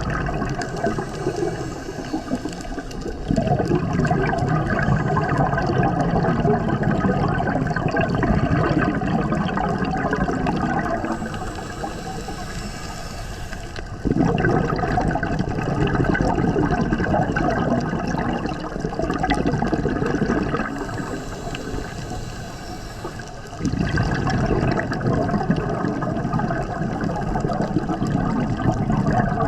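Scuba diver breathing through a regulator: a short hissing inhale, then a longer, louder rush of exhaled bubbles, repeating about every ten seconds, three breaths in all.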